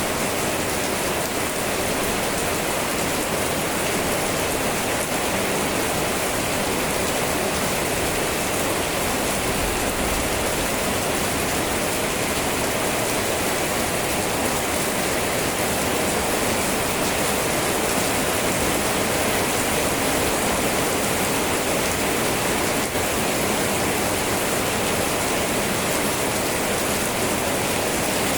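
Steady rain falling, an even hiss without pauses or changes.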